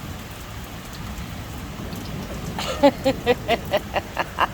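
Heavy rain falling steadily, with a low background rumble of constant thunder. In the last two seconds a rapid series of short, pitched calls, about four a second, rises over the rain.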